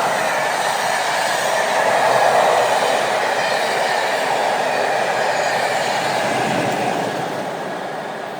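Passenger coaches of a steam-hauled rail tour rolling past at speed, a steady rush of wheels on rail that begins to fade near the end as the train draws away.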